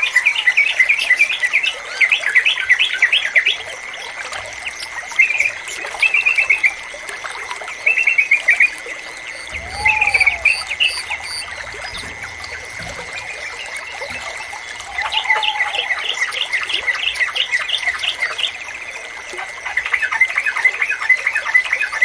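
Yellow-vented bulbul (trucukan) singing in repeated bursts of rapid, bubbly chirps, with short pauses between phrases. A steady high tone runs underneath, and a lower, shorter call comes twice around the middle.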